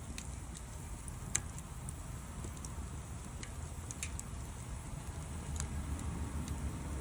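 Wood fire crackling, with sparse sharp pops and one louder pop about a second and a half in, over a steady low rumble.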